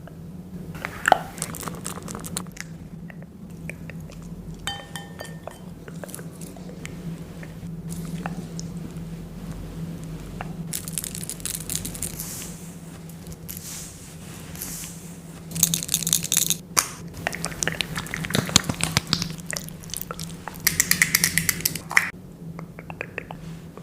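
Close-miked ASMR handling sounds of face masks and skincare products: scattered clicks and rustling, with two louder bursts of crackly rustling about two-thirds of the way through and again near the end, over a steady low hum.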